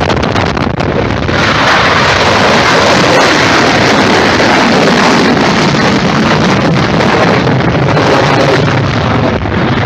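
Loud, steady jet aircraft noise of a flypast, rising sharply about a second in and holding, with wind buffeting the microphone.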